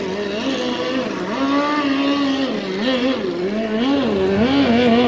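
A vintage race boat's engine running on the water, its pitch wavering up and down over and over as the revs rise and fall.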